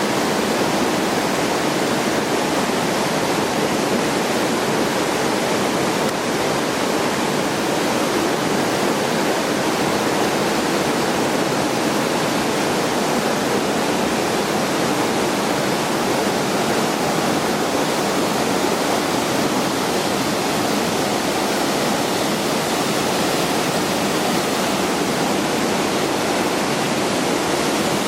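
Waterfall on the Boulder River: a loud, steady rush of falling water with no change.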